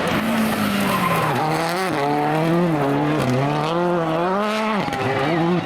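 Rally car engine revving hard along the stage, its pitch climbing and dropping sharply several times as the driver shifts and lifts off.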